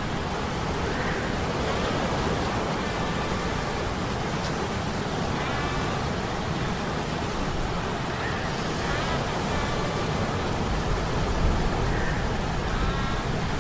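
Sea storm ambience of wind, rain and surf, with a deep rumble, mixed with humming metal gears that give short, faint metallic tones about every three to four seconds.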